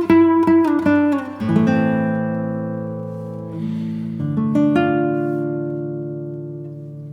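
Background music played on acoustic guitar: a run of picked notes, then chords left to ring and slowly fade, with a few more plucked notes partway through.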